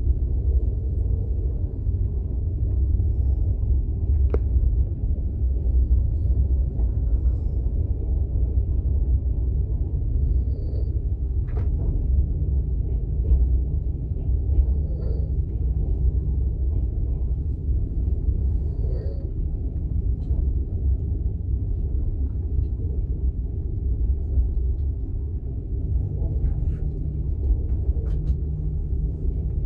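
Passenger train running, heard from inside an open-plan sleeping carriage: a steady low rumble with a few faint clicks and knocks.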